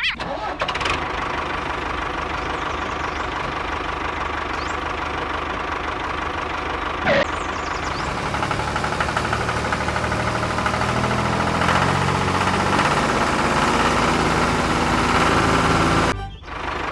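A small engine running steadily, with its pitch lines standing out more strongly in the second half. A short sharp sound comes about seven seconds in, and the sound cuts off abruptly just before the end.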